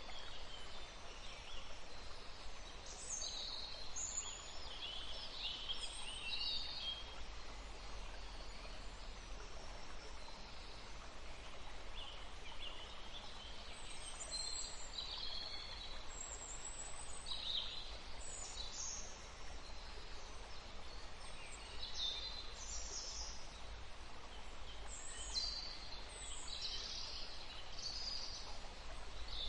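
Several small birds chirping and singing in short, high phrases, one after another and sometimes overlapping, over a steady background hiss and low rumble.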